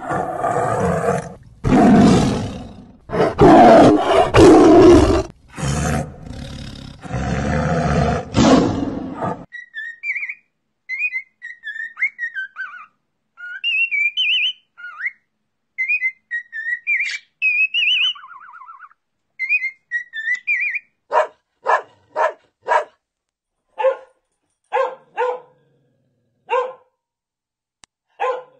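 A lion roaring in a series of loud, rough bursts for about nine seconds, then a run of high, chirping whistles, then a dog giving a string of short, sharp barks near the end.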